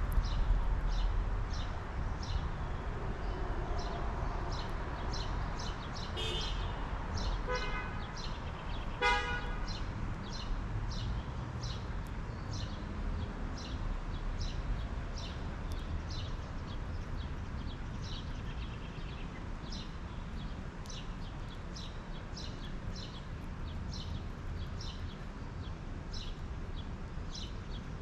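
Backyard birds' short high chirps repeating steadily, about one to two a second, over a low outdoor rumble. Three louder, harsh, honk-like calls stand out about six to nine seconds in.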